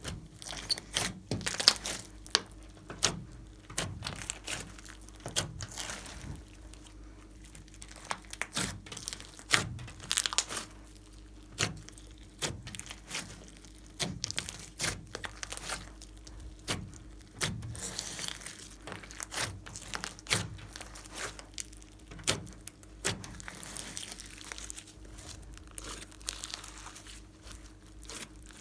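Slime being worked by hand, squeezed and stretched, giving a busy, irregular run of sticky pops, clicks and crackles.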